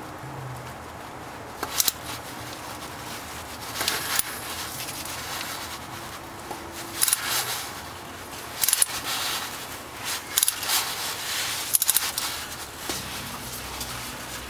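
Socket ratchet on an extension bar and oil filter cap wrench clicking in short runs every second or two, with small metal clinks, as the oil filter is worked loose.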